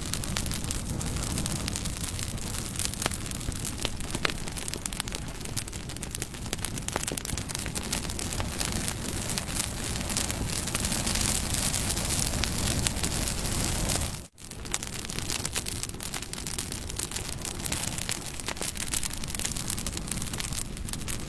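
Wood campfire burning, with a steady low rush and many small crackles and pops. The sound drops out for an instant about fourteen seconds in.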